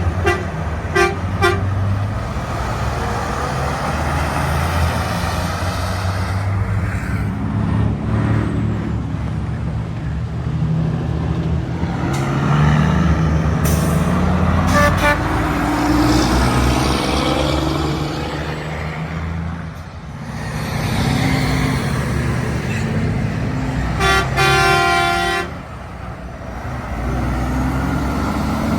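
Heavy trucks passing with their diesel engines running. A couple of quick horn toots sound near the start, a short one comes about fifteen seconds in, and a longer, steady truck horn blast comes about twenty-four seconds in.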